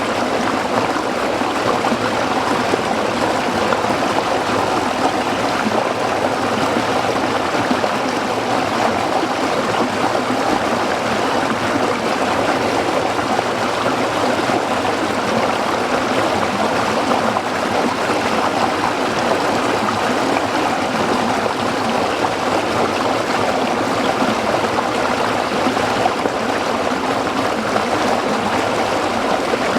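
A small stream running over rocks: a steady, unbroken splashing and burbling of water.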